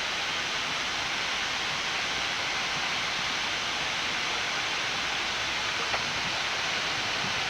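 Steady, even hiss on the Boeing 787-9 flight deck while taxiing with the engines still running, with a faint tick about six seconds in.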